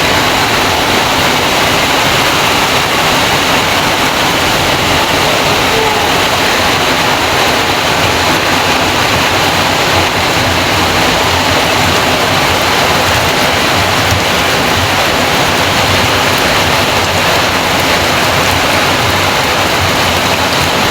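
Steady heavy rain, with rainwater pouring off the roof.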